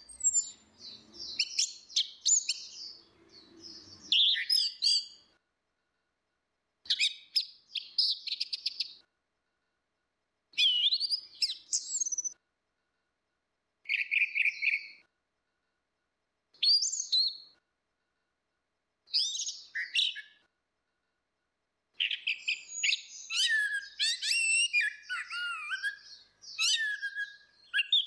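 Orange-headed thrush song: short, varied whistled phrases with sliding pitch, separated by silent gaps of a second or two. About two-thirds of the way through, the song turns into a longer unbroken run.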